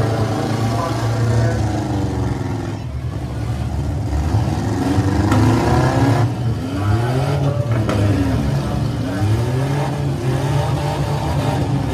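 Six-cylinder demolition derby cars' engines revving up and down again and again, several at once, over a steady low engine rumble.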